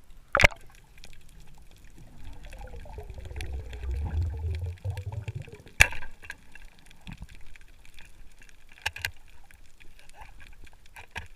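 Water gurgling and bubbling over a low rumble, with two sharp knocks, one near the start and one about halfway, and small scattered clicks.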